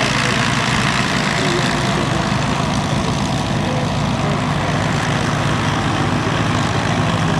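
The Avro Lancaster's four Rolls-Royce Merlin V12 piston engines running steadily on the ground, a loud, even, low drone.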